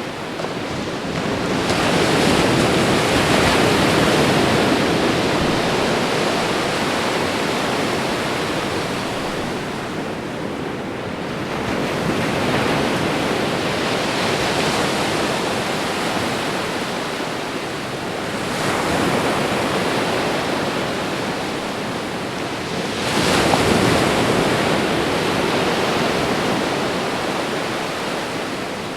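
Ocean waves breaking on a shore, a continuous wash of surf that swells with each breaking wave, four times, roughly every five or six seconds, and eases away between them.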